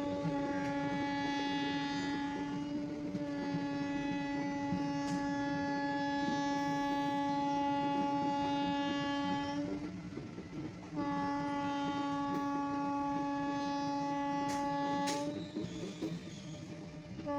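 A horn sounding one steady note in two long blasts over a low rumble: the first lasts about ten seconds, the second about four.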